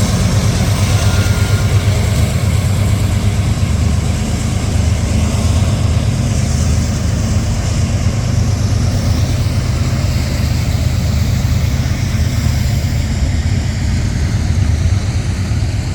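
An engine running steadily with a deep, even rumble.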